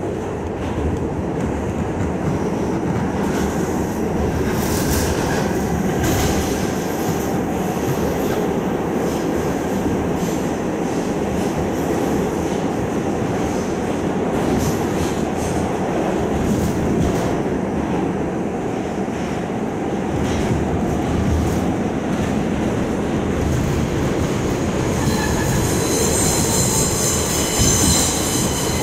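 R68 subway train running at speed: a loud, steady rumble of wheels on rail with scattered clicks from the track. A high-pitched wheel squeal sets in near the end.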